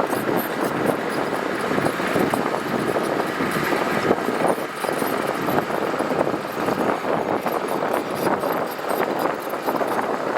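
Heavy earthmoving machinery working gravel: a steady, noisy machine sound with constant rattling and crunching throughout.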